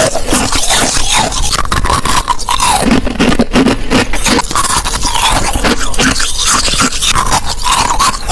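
Ice being bitten and chewed close to the microphone: loud, dense crunching and crackling with no pause.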